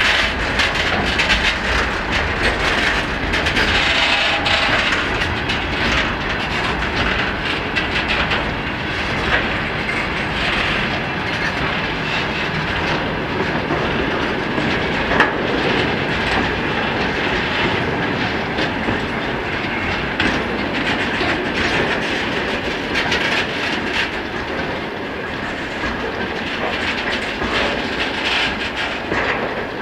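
Freight train wagons rolling past, with a steady rumble and wheels clacking over rail joints. The sound eases slightly near the end.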